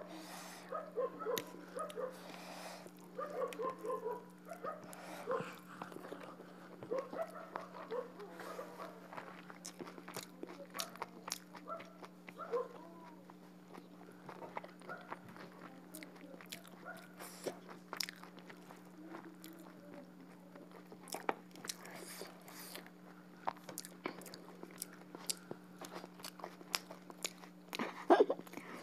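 Close-miked eating: chewing, biting and wet lip smacks as duck curry and rice are eaten by hand, many small clicks one after another over a steady low electrical hum, with one louder, sharper smack near the end.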